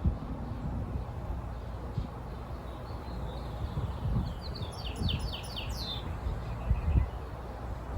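A small bird sings one short trill of about half a dozen quick, falling notes, starting about four seconds in. Underneath runs a steady low rumble with a few dull thumps, the loudest near the end.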